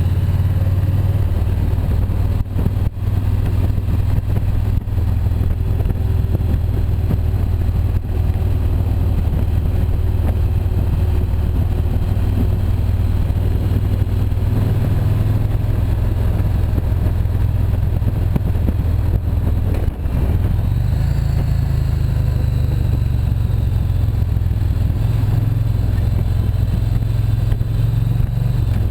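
Motorcycle riding on the road: a steady low rumble of engine and wind on the microphone. The rumble dips briefly about twenty seconds in, then carries on.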